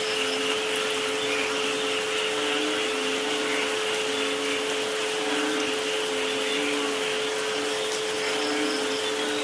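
Steady rain hiss with two pure tones held underneath, tuned to 432 Hz and 528 Hz. Soft low notes of about half a second each come and go at alternating pitches, roughly every second.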